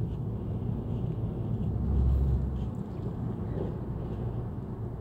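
Car running steadily downhill on a snowy mountain highway, a low engine and road rumble heard from inside the cabin, swelling briefly about two seconds in.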